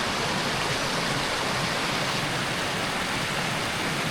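Steady rush of falling water at Cheonjiyeon Waterfall, an even roar with no break.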